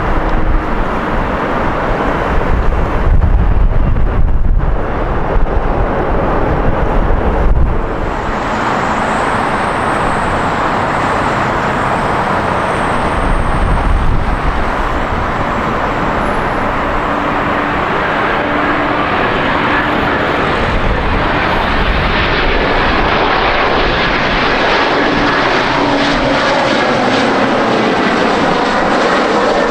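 Jet airliner engines close by, a loud steady rush of engine noise with a thin high whine for several seconds after the first third. Wind buffets the microphone with low rumbling gusts during the first several seconds.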